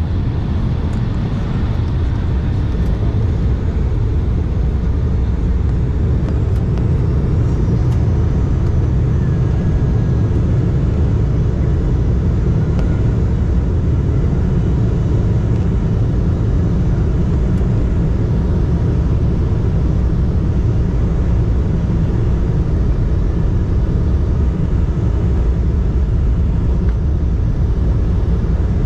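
Cabin noise inside an Embraer E175 regional jet: a steady low rumble from its GE CF34 turbofan engines and the airframe, holding level without any clear rise or fall.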